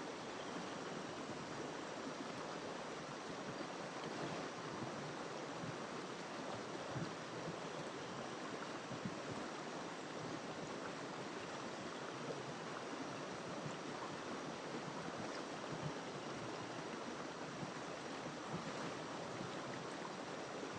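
Tegale Talibeng river flowing: a steady rush of water, with small splashes and gurgles popping out here and there.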